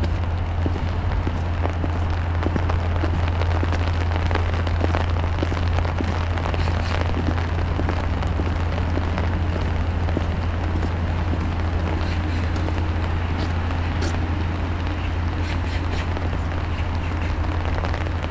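Steady patter of falling rain and sleet with footsteps on a wet path, over a constant low rumble.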